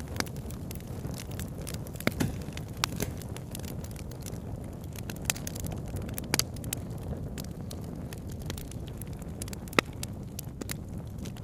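Wood campfire crackling with irregular sharp pops, a few of them louder, over a steady low rush of flowing river water.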